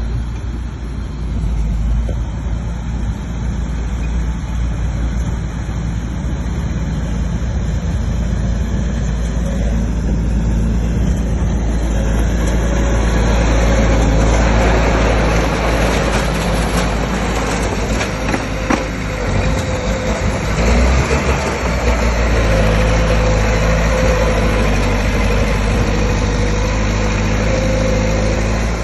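Bulldozer's diesel engine running steadily, growing louder and noisier from about halfway through, with a faint steady whine joining in later.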